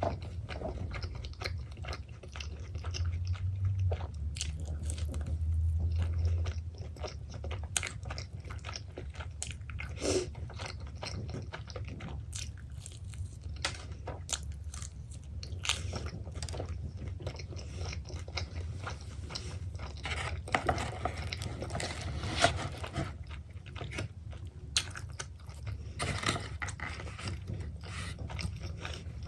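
Close-up chewing and biting of pepperoni pizza, with many small crunchy clicks from the crust.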